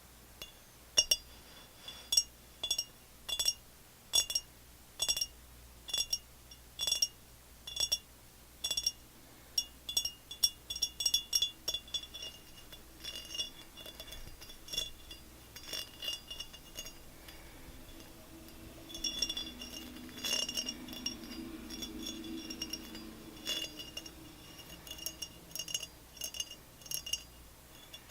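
Repeated tapping on a glass object, each tap a short clink with a brief high ringing tone. The taps come about one a second at first, faster around the middle, then lighter and less regular.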